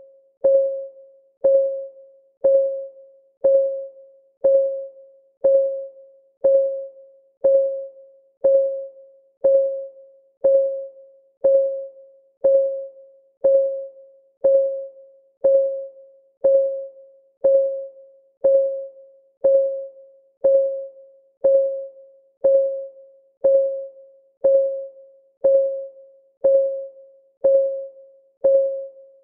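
Countdown timer's clock-ticking sound: one short, pitched tick each second, each fading quickly, at an even beat.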